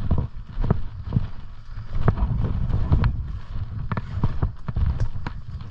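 Footsteps crunching and snapping through dry leaf litter and brush at an uneven pace, over a low rumble on the microphone.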